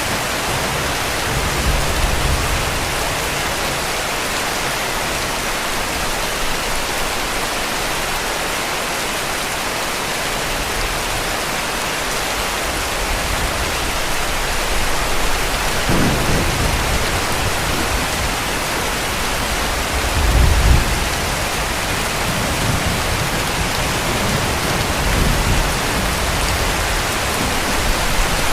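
Heavy rain falling steadily, with low rumbles of distant thunder: a short one a little past halfway, the loudest about two-thirds of the way in, and more rolling near the end.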